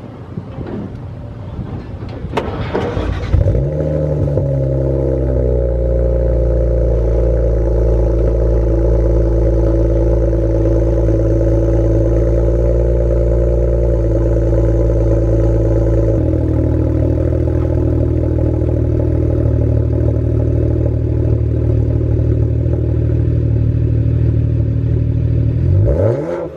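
BMW 335is N54 twin-turbo straight-six starting from cold through a custom 2.5-inch exhaust with an X-pipe and two resonators. It fires about three seconds in, flares up, and settles into a steady fast cold idle, which drops a step about sixteen seconds in. Right at the end the revs begin to rise.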